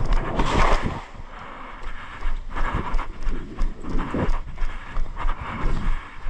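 Hurried footsteps of an airsoft player moving through the course, an uneven run of thuds about two to three a second.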